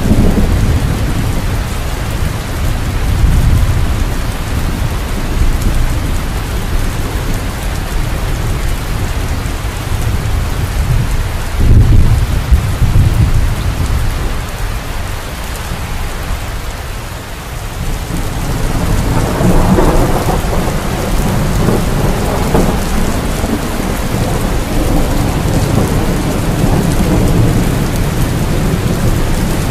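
Steady heavy rain in a thunderstorm, with rolling thunder rumbling underneath. A sharp clap comes about twelve seconds in, and a longer, louder rumble builds from about nineteen seconds.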